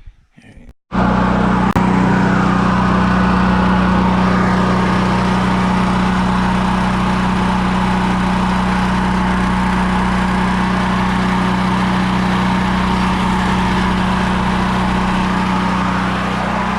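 Generator engine running steadily at a constant speed, cutting in abruptly about a second in and easing off slightly near the end.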